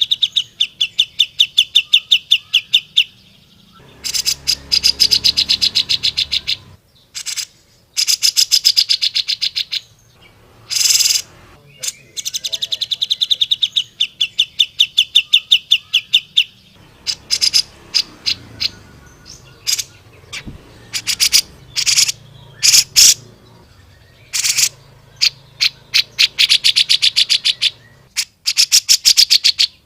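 Grey-cheeked bulbul (cucak jenggot) singing loud, fast trills of rapidly repeated high notes, each run lasting two to three seconds, broken up by short sharp single chips.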